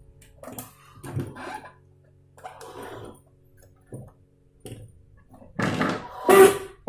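Handling noises from a projector being taken apart: irregular clicks, knocks and rubbing of plastic parts, with two louder scraping bursts near the end.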